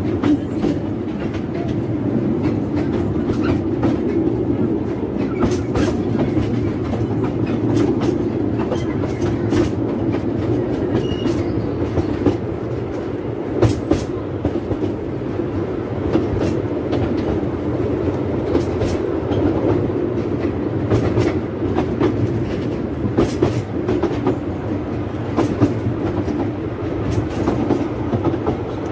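Narrow-gauge steam train running along the line, heard from aboard: a steady rumble from the wheels and coach with irregular sharp clicks from the rails.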